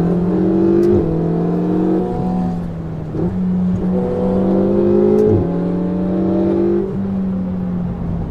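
Ferrari 488 GTB's twin-turbo V8 through a Capristo exhaust, heard from inside the car under hard acceleration. The pitch climbs and snaps down at quick upshifts about one and two seconds in, dips briefly around three seconds, then climbs again to another upshift about five seconds in. Near the end the throttle lifts and the engine falls away.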